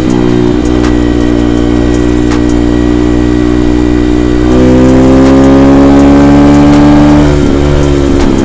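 Avantis 150 Classic pit bike's single-cylinder four-stroke engine running under way at a steady note; about four and a half seconds in the throttle opens and the note gets louder and climbs slowly for nearly three seconds, then falls back near the end.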